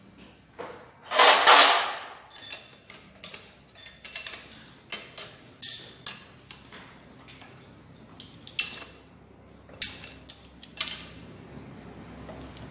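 Loose metal parts being handled: a loud rattling scrape about a second in, then a string of sharp clinks and clicks as nuts, bolts and washers are picked up and set in place while a diesel engine's cylinder head is fitted.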